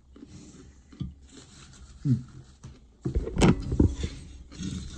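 A person biting into and chewing a crunchy pickle close to the microphone. The crunching is loudest between about three and four seconds in, with a few softer mouth and handling sounds before it.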